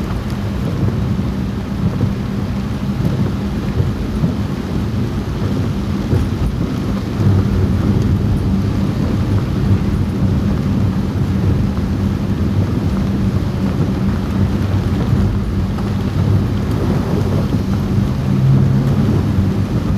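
Heavy rain on the roof of a moving car, heard from inside the cabin, over a steady low rumble of engine and road noise. The sound gets a little louder about seven seconds in.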